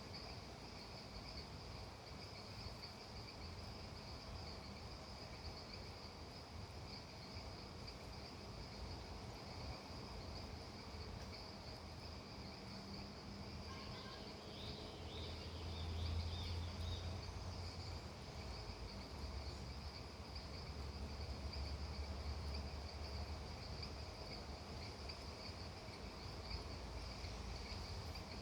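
Insect chorus, crickets trilling in steady high bands, with a low rumble that swells in the middle and a few faint chirps about halfway through.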